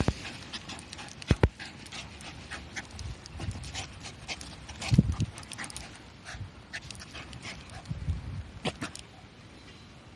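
Shiba Inu digging frantically in the soil with its front paws: claws scrape and scratch the dirt in quick, irregular strokes, with a few dull thumps and the dog panting.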